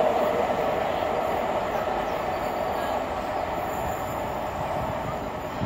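Steam-hauled passenger train running away along the track: a steady rumble of coach wheels on the rails that slowly fades as the train recedes.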